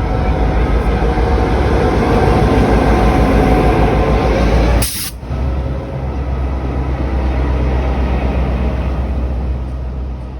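Train arriving at a station platform: diesel locomotive engine running and carriages rolling past, with a brief sharp hiss-like burst about five seconds in, after which the noise is a little quieter.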